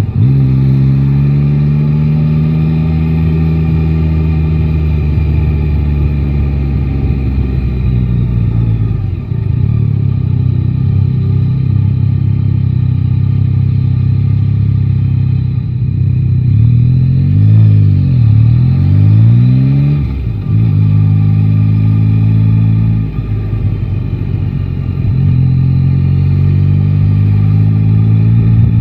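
Yamaha Tracer 9 GT motorcycle's 890 cc inline three-cylinder engine under way, its note rising and falling with the throttle through several gear changes. There is a quick drop and climb in revs about two-thirds of the way through, and the revs build again near the end.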